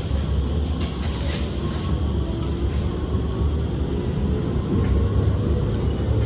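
SMRT R151 train running along the line, heard inside the carriage: a steady low rumble of wheels on rail with a faint motor whine and a few light clicks.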